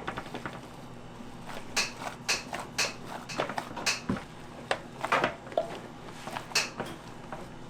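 Irregular clicks and knocks of kitchen work, utensils and containers being handled, over a steady low hum. The loudest cluster comes about five seconds in.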